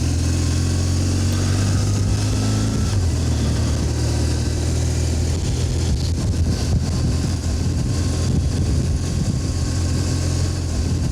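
BMW R 1200 GS flat-twin engine running steadily under way, with road and wind noise. The low engine hum is smooth for the first few seconds, then grows rougher and noisier.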